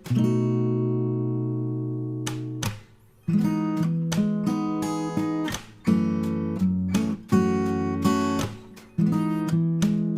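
Background music on acoustic guitar: a strummed chord left ringing, a brief pause, then a steady run of strummed chords.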